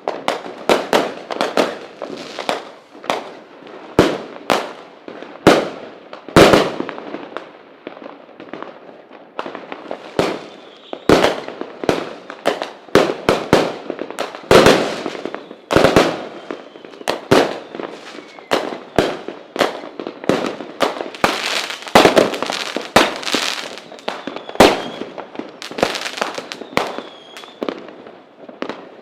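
Fireworks display: a rapid, irregular barrage of loud bangs and cracks, several a second, each with a short echoing tail.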